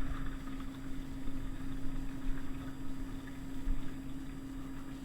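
A steady low hum, like a running fan or appliance motor, under faint soft handling sounds.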